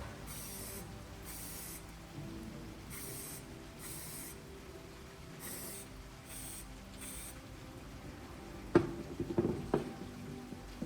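A spray bottle squirting in about seven short hissing bursts, followed by a sharp click and a few light knocks near the end, over soft background music.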